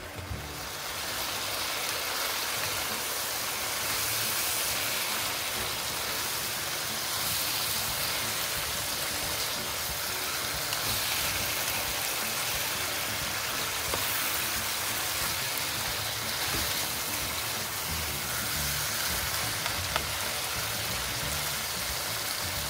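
Pork and chicken pieces frying hard in hot oil in a nonstick wok: a steady sizzling hiss that swells in the first second and then holds.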